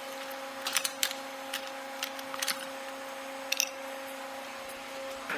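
Scattered light clicks and taps of hand tools against the metal parts of a steam trap being worked on, about half a dozen at irregular intervals, over a steady mechanical hum.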